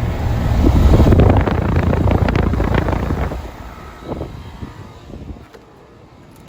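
Trane R-454B heat pump outdoor unit running, its fan noise mixed with wind rumbling on the microphone; the sound drops off a little past three seconds in.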